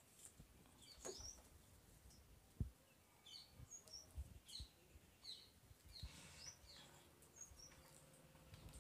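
Near silence with faint, short bird chirps scattered throughout, and a few soft knocks of handling, the clearest about two and a half seconds in.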